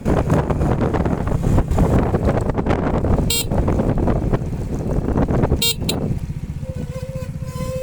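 Motorcycle engine running hard over rough, wet ground with wind on the microphone, broken twice by short high-pitched beeps. About six seconds in it drops to a quieter, even idle.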